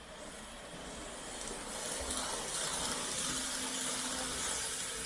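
Model train running on the layout track, a steady hiss of wheels and motor that grows louder over the first couple of seconds as it nears, with a faint steady motor hum joining about two seconds in.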